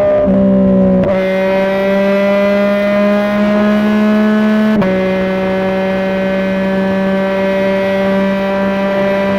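Yamaha MT-09's three-cylinder engine through a Dominator GP3 aftermarket exhaust, pulling hard at highway speed with its pitch slowly rising. The note dips briefly at quickshifter upshifts about a second in and again near halfway, the second with a sharp crack from the exhaust.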